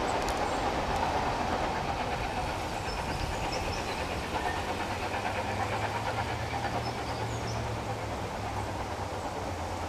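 Narrow-gauge train running on the rails, a continuous rumble of wheels and track with a steady low hum coming in about halfway.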